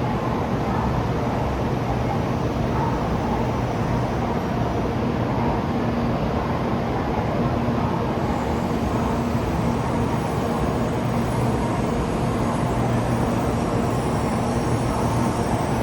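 Steady rumble of a Shinkansen bullet train at the platform, with a low steady hum underneath.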